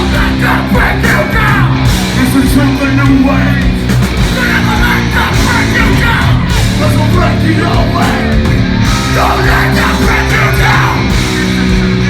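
Live heavy metal band playing loud, with yelled and sung vocals over the guitars.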